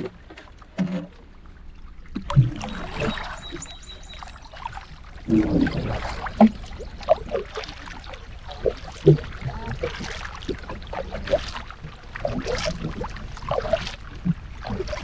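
Solo pack canoe being paddled: water splashing and trickling off the paddle, with scattered light knocks.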